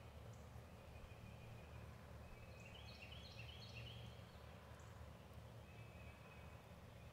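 Near silence with faint birdsong: short series of high notes stepping up in pitch, heard a few times, over a low steady rumble.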